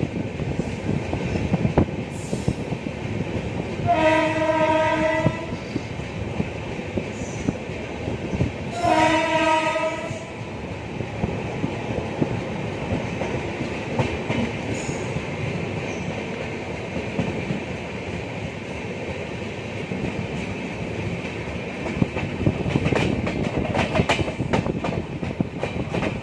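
Passenger train running at speed, with a steady rumble and scattered wheel clicks on the rails, and a train horn sounding two blasts of about a second and a half each, a few seconds apart.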